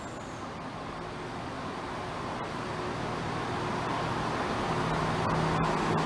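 Chiltern Railways diesel multiple unit running into a station platform, growing steadily louder as it draws near. Once the cab has passed, a steady low engine hum comes through under the wheel and running noise.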